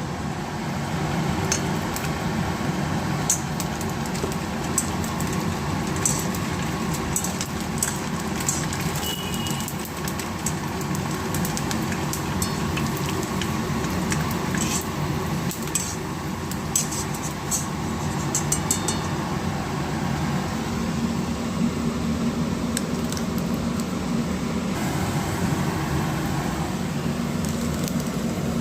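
Scattered clinks and taps of kitchen utensils and dishes over a steady kitchen hum and noise.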